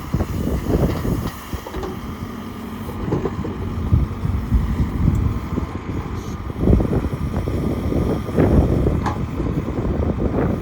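JCB 3CX backhoe loader's diesel engine running as the backhoe is worked, its sound rising and falling with the load.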